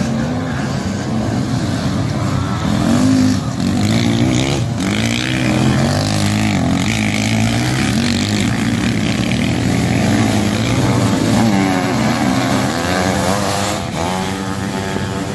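Several sidecarcross outfits' motorcycle engines revving hard as they race past on a dirt track, their pitch rising and falling again and again with the throttle and gear changes.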